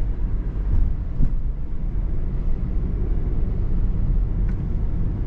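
Steady low rumble of a car heard from inside the cabin while driving.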